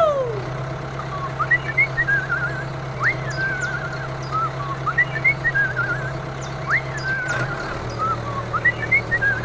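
A steady low engine drone, with a high warbling whistle-like call repeating about every one and a half seconds: each call a quick upward sweep followed by a wavering tone.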